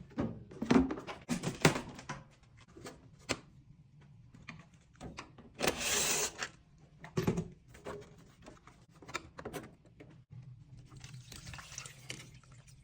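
Irregular knocks, clicks and scrapes of tools working on washing machine parts during a drum bearing replacement, with a short rasping burst about six seconds in and a faint low hum underneath.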